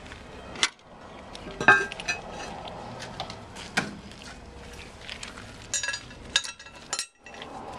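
A series of light clinks and knocks of hard objects, such as porcelain toilet tank parts being handled. The loudest knock comes about two seconds in, and a quick run of clinks follows near the end.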